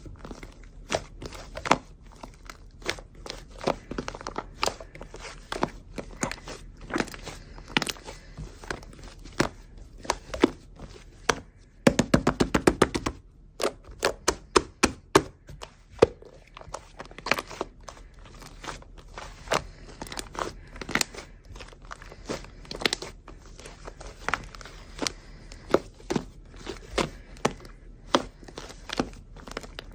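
Clear slime being squeezed and poked by hand, giving a steady run of sharp clicks and pops as air pockets burst, with a quick burst of rapid clicking about twelve seconds in.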